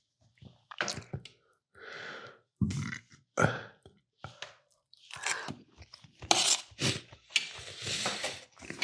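Close-up eating sounds: irregular chewing and crunching in short bursts with brief pauses.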